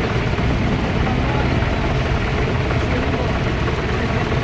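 Tractor engines running steadily at low revs, a continuous low rumble.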